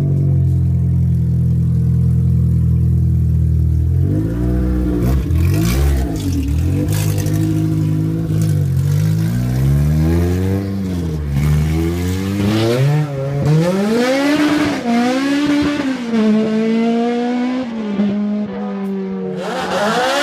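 Naturally aspirated Honda K24 2.4-litre four-cylinder in a Civic EG, idling steadily. From about four seconds in it is revved repeatedly, then driven off with the revs climbing and dropping several times.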